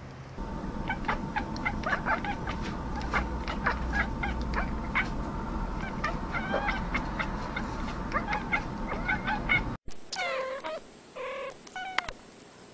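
Cats meowing over a low background rumble: many short, quick calls. About ten seconds in, a sudden change to a quieter stretch with a few longer meows that fall in pitch.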